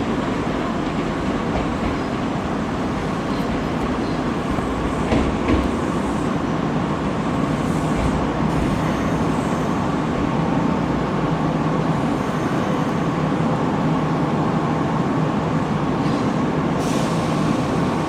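Kintetsu Minami-Osaka Line electric train at a station platform: a steady rumble with a faint even hum, and two short clicks about five seconds in.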